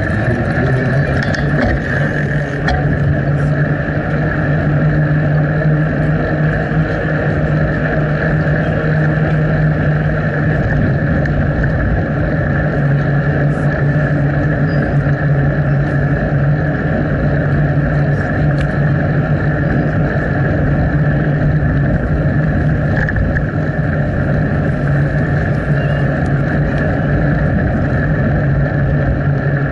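Steady rushing noise of a bicycle ride picked up by an action camera's microphone, with a constant low hum underneath.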